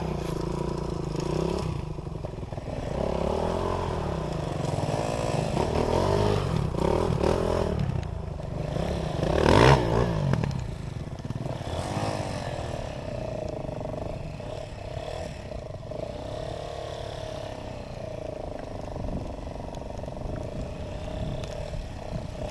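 Dirt-bike engine revving up and down as it rides, peaking in a sharp loud surge about ten seconds in, then settling into a steadier, quieter drone.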